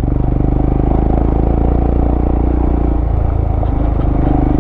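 Motorcycle engine running under load on a rough dirt trail, its note changing about three seconds in.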